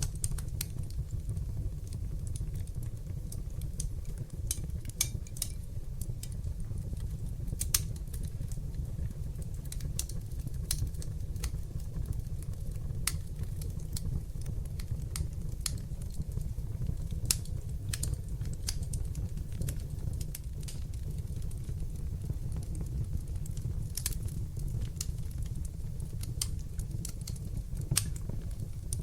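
Wood fire burning in a fireplace and crackling: frequent irregular sharp pops over a steady low rumble of the flames, with a few louder pops scattered through.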